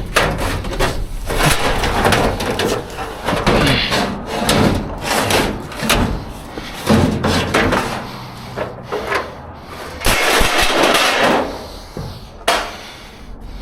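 Debris in a dumpster clattering, knocking and scraping as it is rummaged through and shifted by hand. The knocks come irregularly, with a longer stretch of scraping and rustling about ten seconds in.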